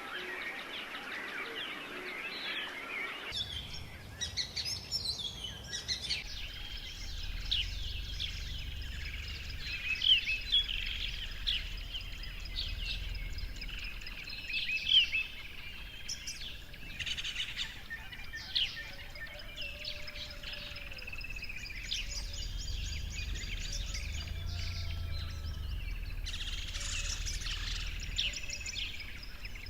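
Many small birds chirping and calling together, short quick chirps overlapping one another, over a low steady rumble.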